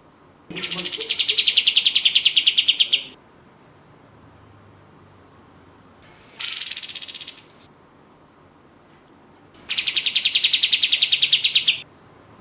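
Kapas tembak (pied triller) singing three fast trills of rapid repeated notes. Each trill starts high and drops to a steady lower pitch. The first and last trills are long, the middle one short.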